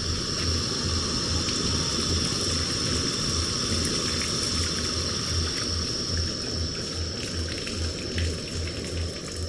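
Oil sizzling as food fries in a pan, a steady hiss with scattered small crackles. A steady high-pitched tone and a low, evenly repeating pulse run alongside it.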